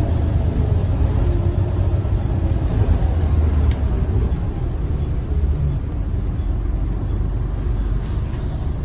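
Scania L94UB single-decker bus running with a steady, deep diesel rumble. About eight seconds in comes a short hiss of released air, typical of the bus's air brakes.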